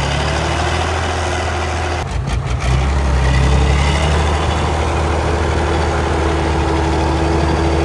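Heavy truck engine running steadily with a deep hum, growing a little louder about three seconds in.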